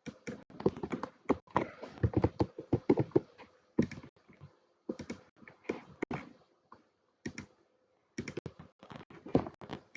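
Computer keyboard typing in quick runs of keystrokes, a dense run at first, then shorter clusters with brief pauses between them.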